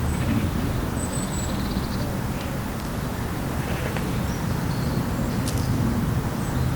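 Lakeside outdoor ambience: a steady low rumble with a few faint, high bird chirps over it and one short click about five and a half seconds in.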